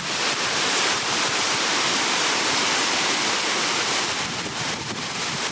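Steady rushing of the Hongjecheon artificial waterfall pouring into the stream.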